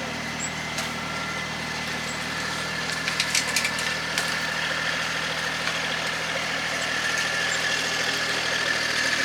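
A vehicle engine running steadily at idle, with a short run of clicks or rattles about three seconds in.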